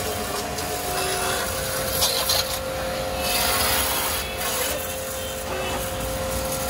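Electric high-pressure washer running: a steady motor-pump tone under loud water-spray hiss that swells twice in the middle as the jet is moved.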